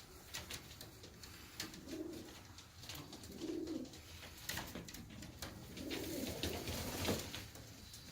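Jacobin pigeons cooing softly: a few low coos about two seconds in, again at three and a half, and a longer run around six to seven seconds, with scattered light taps and clicks between them.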